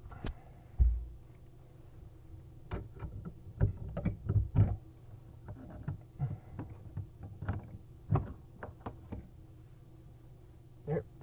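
Irregular metallic clicks, clanks and knocks of hand tools such as pliers working on the metal faucet fittings and drain parts under a bathroom sink, with a dull thump about a second in.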